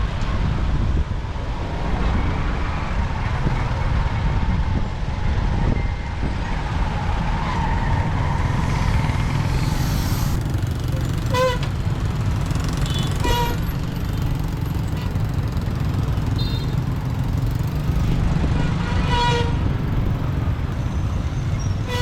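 Motorbike riding through city traffic: a steady low rumble of engine and wind, with several short horn beeps from passing vehicles in the second half.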